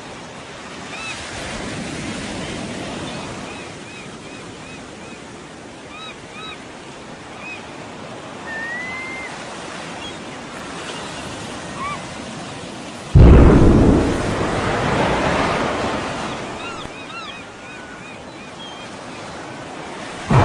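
Steady surf and sea noise with short high chirping calls scattered through it, then about two-thirds of the way in a sudden, very loud explosion boom that rumbles and slowly fades.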